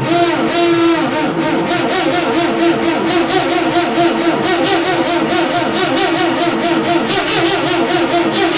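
Fowler diesel shunter's engine running steadily with an even, rapid beat, just after a cold start.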